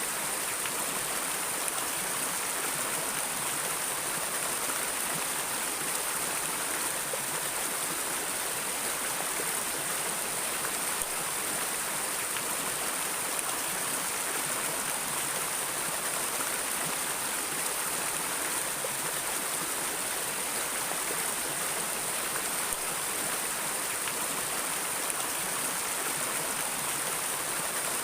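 Flowing river water: a steady, even rush of running water that does not change.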